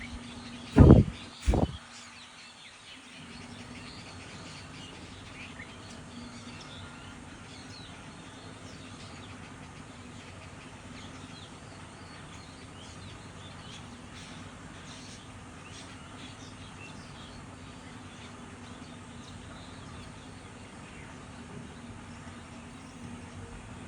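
Small birds chirping in the background, with a faint steady low hum underneath. A little under a second in come two loud thumps about half a second apart.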